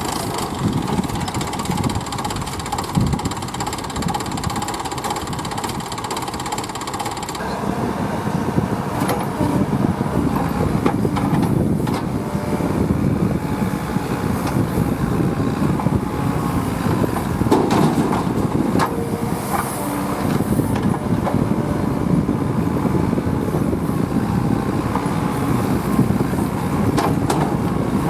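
Diesel engine of a heavy farm or construction vehicle running steadily, with an abrupt change in the sound about seven seconds in.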